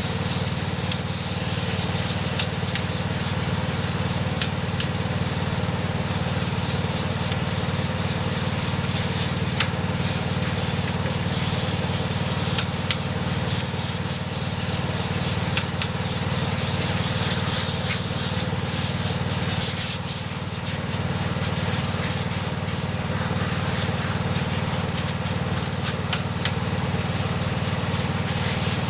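Steady machine hum with a hiss over it, broken by a few sharp clicks.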